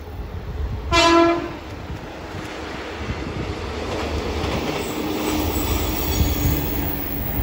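JR Kyushu 815 series electric train gives one short horn blast about a second in, then runs past with a steady rolling noise of wheels on the rails.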